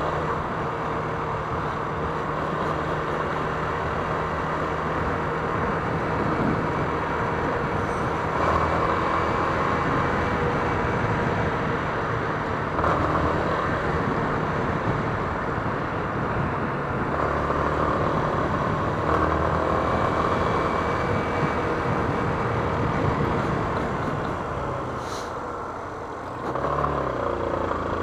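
Yamaha Fazer 250's single-cylinder engine running while the bike is ridden, with road and wind noise. Near the end the engine eases off, then picks up again with a rising pitch.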